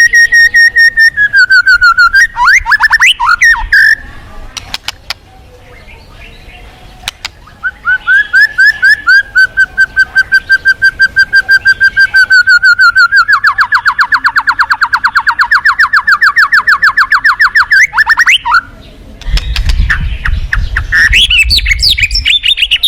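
White-rumped shama (murai batu) singing loudly: a held whistle that slides down, then a long, fast rattling series of repeated whistled notes, and varied chattering phrases near the end. A low rumble sits under the song for a few seconds near the end.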